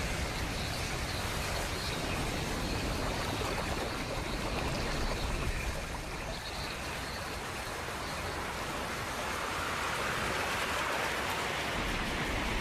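Steady rushing noise of wind and churning, spraying water from a waterspout, growing a little brighter near the end.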